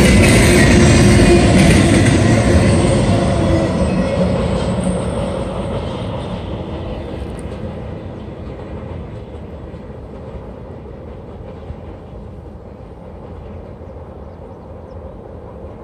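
Double-stack intermodal freight cars rolling along the track and moving away, their rumble fading steadily over the first several seconds to a faint, even rolling noise as the train's tail recedes.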